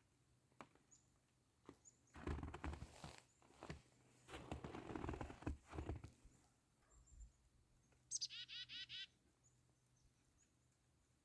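Two spells of loud rustling noise in the first half, then a black-capped chickadee's rapid 'chick-a-dee-dee-dee' call: a high opening note followed by a quick run of buzzy, repeated 'dee' notes, lasting under a second.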